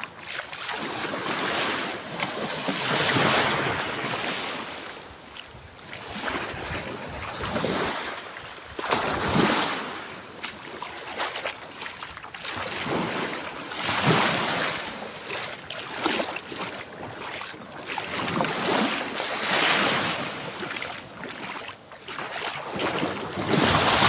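Sea waves breaking and washing up a beach, surging about every four to five seconds, with wind buffeting the microphone.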